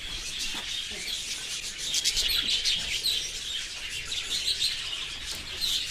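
A flock of budgerigars and cockatiels chirping and chattering continuously, many short overlapping high calls.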